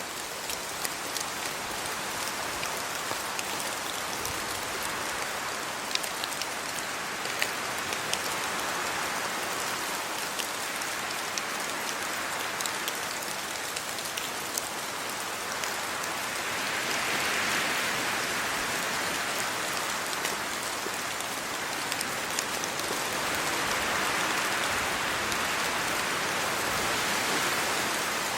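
Steady rain falling on leaves and the ground, with many sharp drop ticks. Twice in the second half it swells louder for a few seconds, as gusts of wind through the trees.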